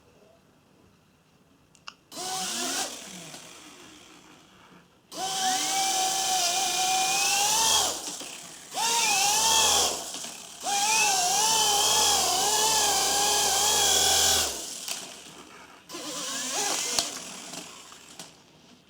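WLToys V911 micro RC helicopter's electric motor and rotor whining in several bursts of a few seconds. Each burst rises in pitch as it spools up and wavers with the throttle, then winds down or cuts off.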